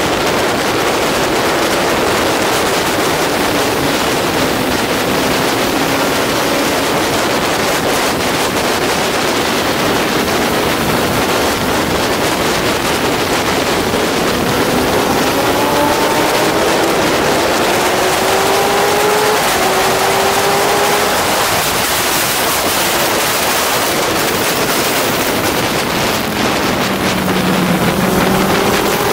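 Honda CBR600RR inline-four engine revving hard and climbing in pitch again and again through the gears, half buried under heavy wind rush on the onboard microphone. Near the end the revs drop low, then rise again.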